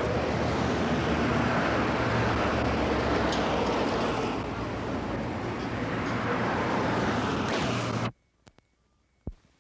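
Steady rushing background noise with a low hum, cutting off suddenly about eight seconds in; a few faint clicks and a single knock follow in near silence.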